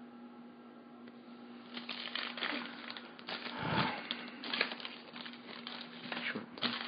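Trading cards and their foil pack wrappers being handled: irregular crinkling and rustling that starts a couple of seconds in, over a faint steady electrical hum.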